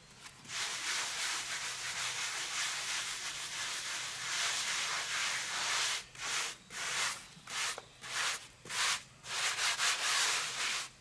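A hand tool scraping across a cement surface: one long continuous scrape, then a run of shorter strokes about every half second, typical of a trowel spreading and smoothing cement plaster.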